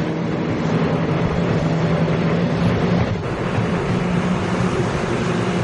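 A Taiwan Railway Tze-Chiang express electric multiple unit running out of the station, a steady rumble of wheels on rail with a low, even motor hum.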